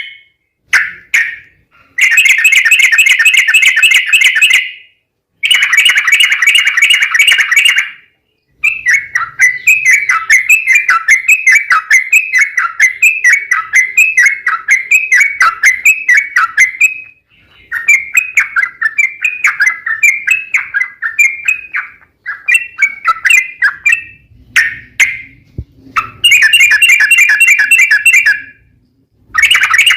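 Trucukan (yellow-vented bulbul) singing loudly in dense chattering phrases broken by short pauses, with a long, rapid rolling run of repeated notes in the middle.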